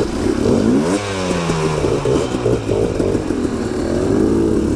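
Dirt bike engines revving, their pitch rising and falling as they pull away and climb, with more than one bike heard at once.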